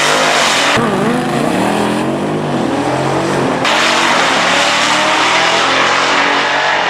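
Drag-racing sport compact car engines revving hard and accelerating down the strip, their pitch dropping sharply about a second in, then climbing and falling again.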